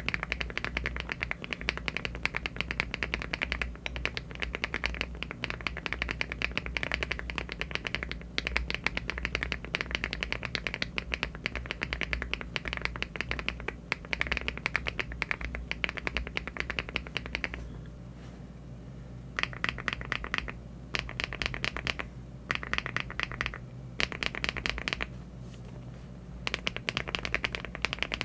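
Typing on a LEOBOG Hi75 aluminium mechanical keyboard fitted with HMX switches and Cherry-profile keycaps: fast, continuous keystroke clacking. About 17 seconds in, it breaks into separate short bursts of typing with pauses between them, around the change to the next switch.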